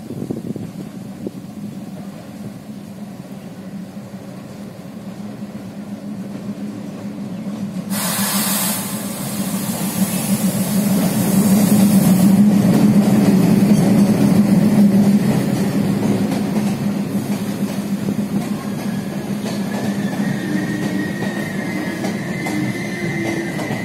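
Diesel locomotive hauling a passenger express into a station. The engine's drone builds and is loudest as the locomotive passes close, then the coaches roll by with a thin, high wheel squeal from the brakes coming in over the last few seconds as the train slows to stop.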